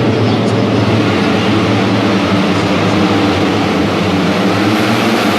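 Steady, loud engine drone with noise over it, unchanging throughout, like a vehicle's engine and running noise heard while riding in it.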